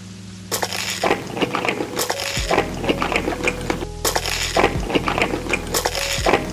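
Close-miked crunching of food being eaten, a dense crackle that starts about half a second in and carries on with short breaks, over background music with steady held notes.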